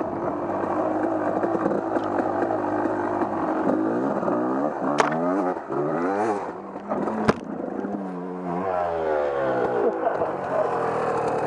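Off-road vehicle engine running, then revved up and down in quick throttle blips through the middle, with two sharp knocks a couple of seconds apart.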